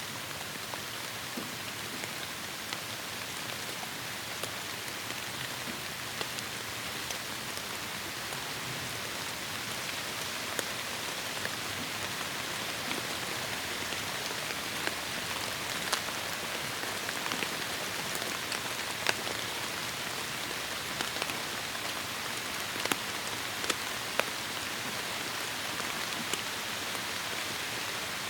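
Steady heavy rain falling in a forest, an even hiss with individual drops ticking sharply now and then, a few louder drop hits in the second half.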